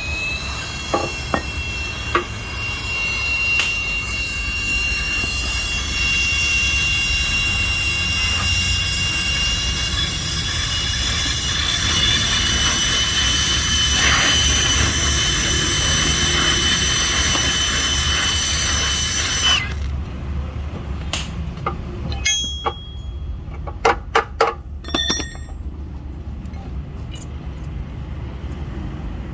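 A steady, high-pitched mechanical whine over a hiss that cuts off abruptly about twenty seconds in, followed by a few sharp metallic clinks.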